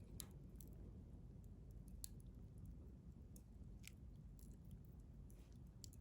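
Wood fire in a stainless steel fire grill crackling faintly, with a handful of sharp pops scattered through a low, steady rumble.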